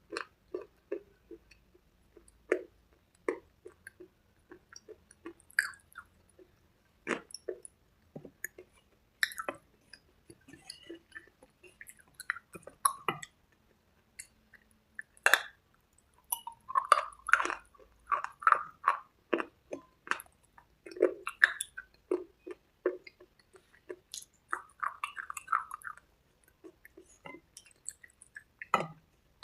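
Close-up chewing of hard cubes and red slate paste: irregular sharp crunches with short pauses, and clusters of wetter, softer chewing now and then.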